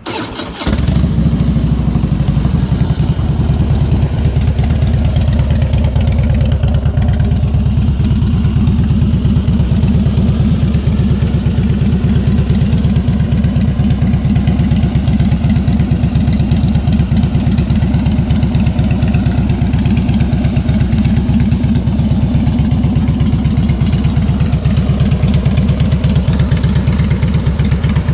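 2006 Harley-Davidson Heritage Softail Classic's V-twin engine breathing through Vance & Hines aftermarket exhaust. It catches about a second in and then idles steadily.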